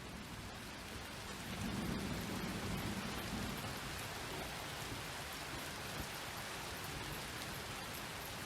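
Steady rain falling, with a low rumble of thunder swelling about two seconds in and fading by the fourth second.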